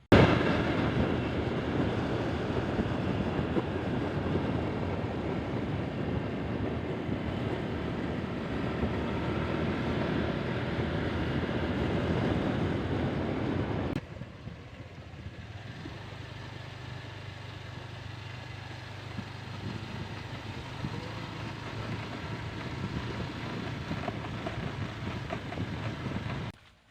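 Steady running noise of a moving motor vehicle, with a hard cut about 14 s in to a quieter stretch that carries a steady low hum.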